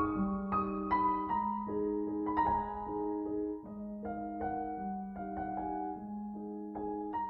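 Solo piano music: a slow, dark piece with a repeating pattern of low and middle notes under a sparse melody.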